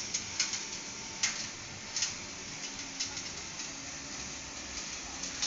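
Biomass sawdust burner firing: a steady hiss of flame with irregular sharp crackles and clicks.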